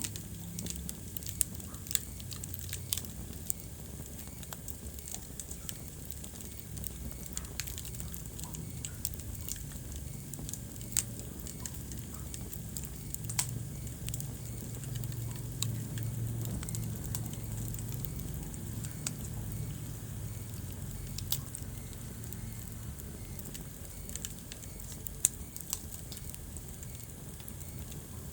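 Wood fire burning in a fireplace: a steady low rumble of flames with irregular crackling and scattered sharp pops, the loudest pop about 25 seconds in.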